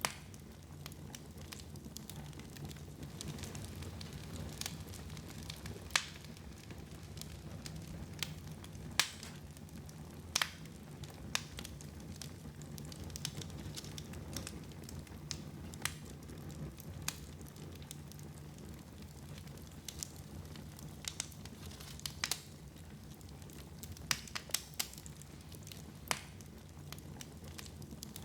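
Wood fire burning in a fireplace: a steady low rumble of flames with irregular sharp crackles and pops every second or few.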